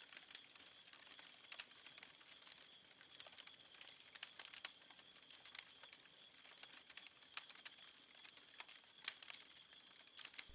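Near silence: a faint steady hiss with scattered soft clicks.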